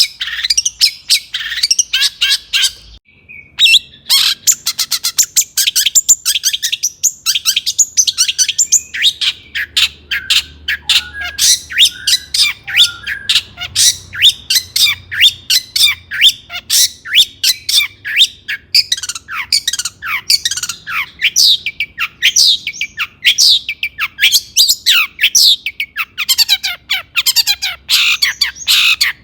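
Long-tailed shrike (cendet) singing fast and agitated: a dense, continuous stream of sharp, high, squawky notes, many sliding downward, with a brief break about three seconds in.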